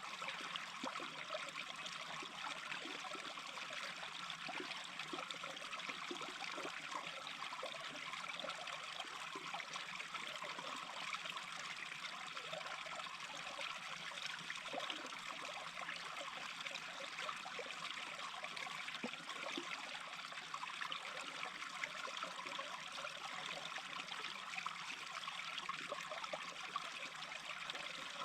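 Small brook babbling steadily, an even rush of running water.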